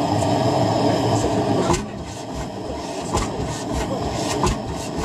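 An old tractor engine running slowly with a low, uneven knocking beat. A sharp knock comes just under two seconds in, and after it the engine runs quieter.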